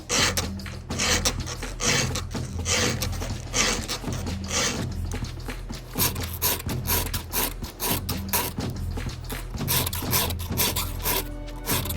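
Chainsaw chain being sharpened with a file: repeated rasping file strokes across the cutters, one after another.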